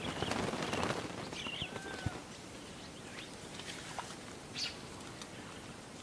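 Birds at a watering hole: a rush of wing flapping in the first second, then a few short chirps and whistled calls over a faint outdoor background.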